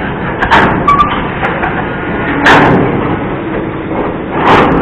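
Railway wagons rolling past at close range: a steady rumble of wheels on rails, broken by several loud metallic clunks.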